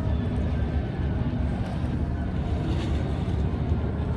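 Steady low outdoor rumble by the Bosphorus waterfront, with wind buffeting the microphone.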